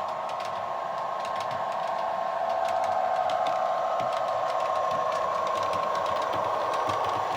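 Diesel locomotive-hauled passenger train running, giving a steady mechanical whine and hum with faint ticking, a little louder after a couple of seconds.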